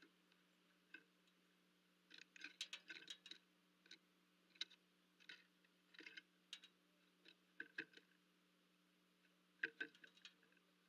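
Birds pecking and tapping at seed on a bird feeder: faint, irregular sharp clicks, some in quick clusters, over a steady low hum.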